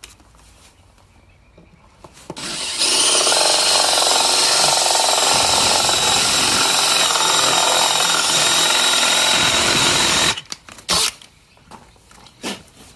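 Cordless power drill driving a 35 mm Forstner bit into a wooden cabinet door to bore a concealed-hinge cup hole. It runs steadily for about eight seconds and then stops, followed by a few short knocks.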